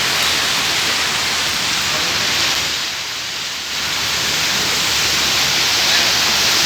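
Heavy rain pouring down in a steady, dense hiss, easing slightly for a moment about three seconds in.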